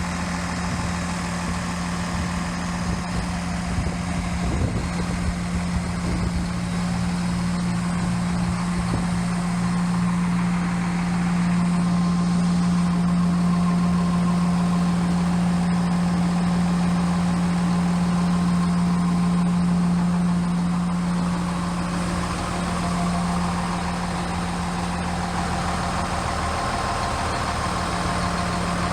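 FLX 4510 machine's engine idling steadily with a deep, even hum, a little louder through the middle stretch.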